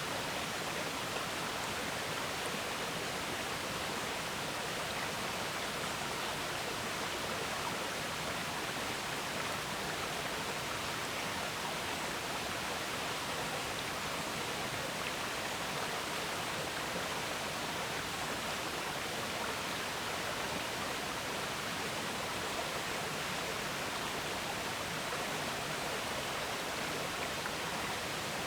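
River water flowing and gurgling, a steady rushing with no breaks.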